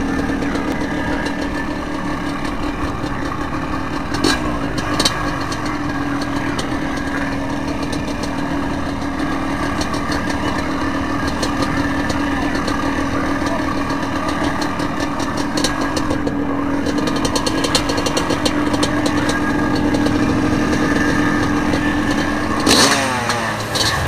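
Several dirt-bike engines running together at a cross-country race start, a steady, dense engine drone with a few sharp clicks and knocks over it.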